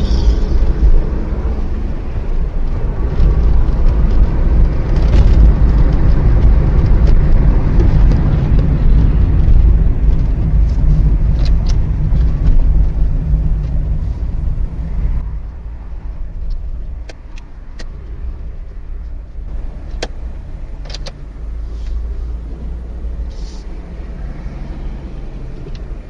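Car on the road: steady engine and tyre rumble, loud for about the first fifteen seconds and then quieter, with a few short knocks scattered through the second half.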